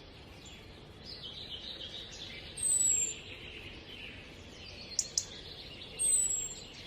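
Birds calling: a high, falling whistled call about two and a half seconds in and again near the end, over a steady background twitter of other birds. Two short clicks sound about five seconds in.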